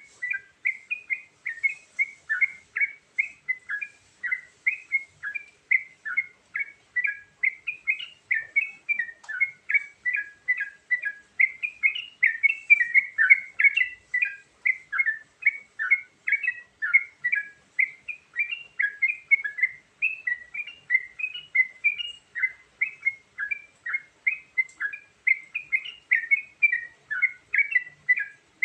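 Yellow-vented bulbul (trucukan) singing a fast, unbroken run of short chirpy notes, about three to four a second, varying in pitch from note to note.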